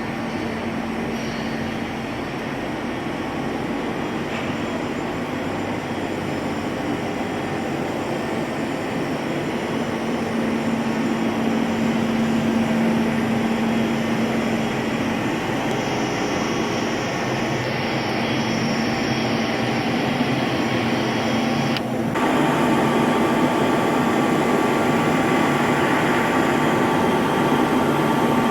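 Large two-column CNC vertical turning lathe running, a steady machine noise with a constant low hum that steps up louder about 22 seconds in.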